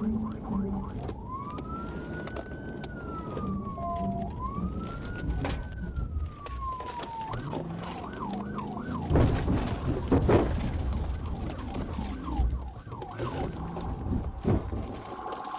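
Police car siren switching from a fast yelp to two slow rising-and-falling wails, then back to the fast yelp, over a running car engine. A few loud knocks about nine to ten seconds in are the loudest sounds.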